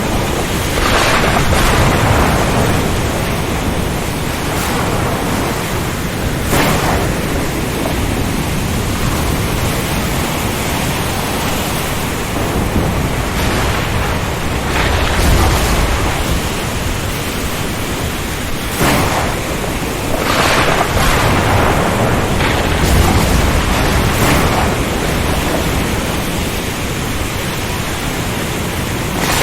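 Storm at sea: a steady rush of wind, rain and surf. It swells several times into short louder crashes and gusts, with a deep rumble about halfway through.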